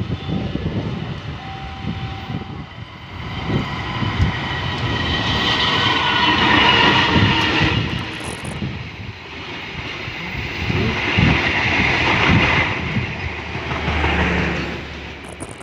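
Passenger train rolling past, its wheels clattering over the rail joints and its carriages rattling. The sound swells and eases twice.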